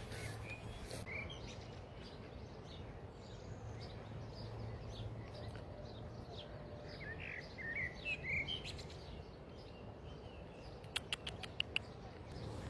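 Small birds chirping, with a cluster of short chirps about seven to nine seconds in, over faint steady outdoor background noise. A few sharp clicks near the end.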